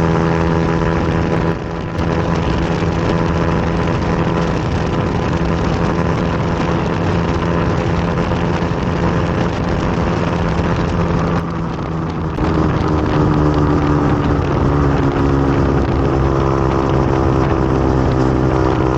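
Motorcycle engine running steadily at speed. The engine note dips briefly twice, about two seconds in and again around twelve seconds, as if the throttle is eased or a gear is changed, and runs at a lower pitch after the second dip.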